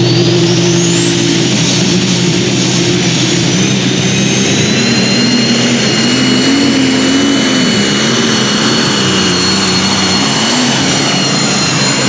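Pulling vehicle's engine at full throttle during a pull, with a high turbo whine that climbs over the first second or so and then holds, over a low engine note that wavers up and down.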